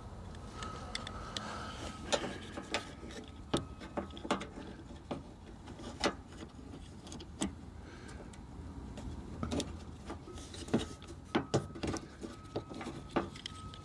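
Irregular sharp clicks and light knocks of a car door handle and its clip being handled and fitted into the door, several coming close together near the end.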